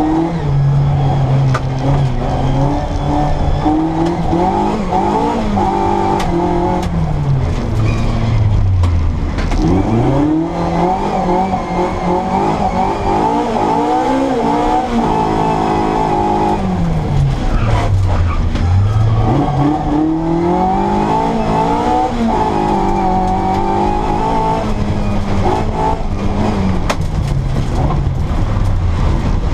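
Mini Cooper S engine with an Arden 8-port cylinder head and twin Weber 40 DCOE carburettors, driven hard on a rally stage. Its note climbs and drops again and again through the gears. Twice it falls to a low note as the car slows, then pulls hard again.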